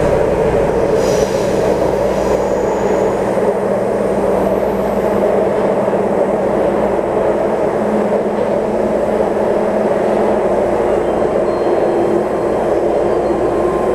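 Taipei Metro C301 train with retrofitted propulsion equipment running between stations: a loud, steady rumble of wheels and running gear with a constant low hum.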